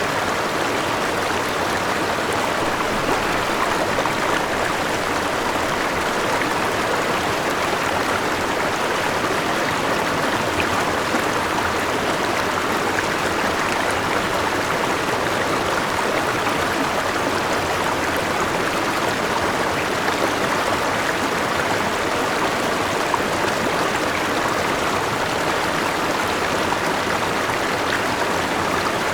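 A forest river and small waterfall rushing steadily, an even wash of flowing water.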